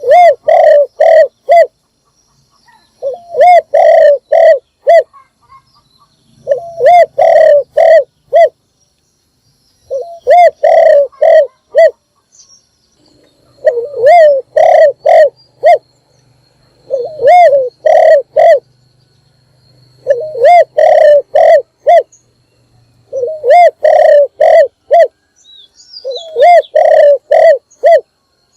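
A spotted dove singing its cooing song: phrases of four or five low coos, repeated about every three seconds, nine times over. Faint high chirps of small birds sound behind it.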